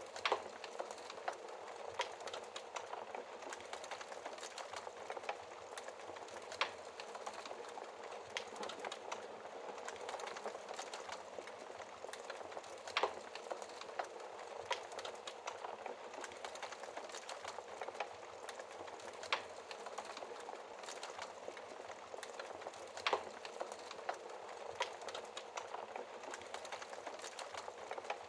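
Wood fire burning in a fireplace: a steady hiss with frequent small crackles and occasional sharper pops at irregular intervals.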